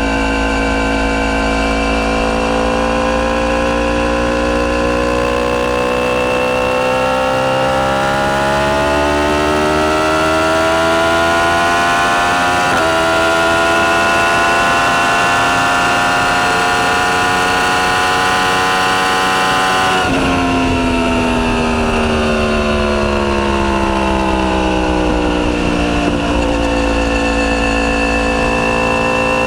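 Yamaha YZF-R1's crossplane inline-four running loud through a full titanium Akrapovic exhaust under way. The engine note climbs slowly and holds high for several seconds, then the throttle is closed about two-thirds through and the pitch falls steadily before levelling off again.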